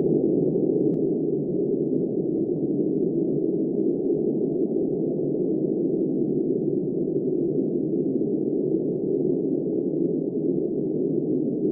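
Steady low wind of a snowstorm, a dull, even rush with no high sound in it.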